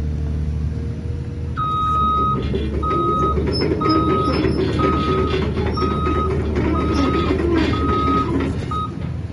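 Cat 323D L excavator's travel alarm beeping about once a second, eight beeps, over its steady-running diesel engine, the signal that the machine is tracking.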